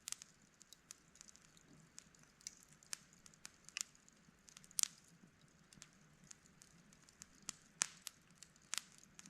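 Wood fire crackling, with irregular sharp pops and a few louder snaps near the middle and end.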